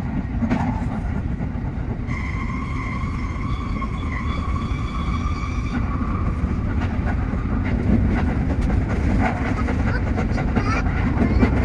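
Tsukuba Express TX-3000 series electric train running along the line, a steady low rumble with scattered clicks. From about two seconds in, a steady high whine joins it for about four seconds, then stops.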